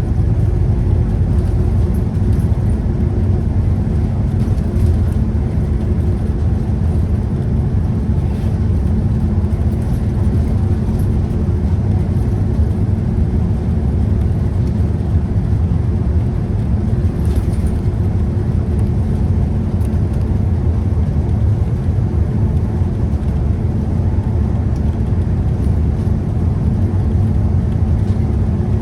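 Scania CK320UB Citywide city bus driving, its nine-litre five-cylinder diesel engine running steadily with a continuous low rumble of engine and road noise.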